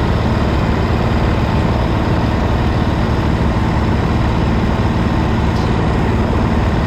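Racing kart engine running steadily and loudly, under an even hiss of noise.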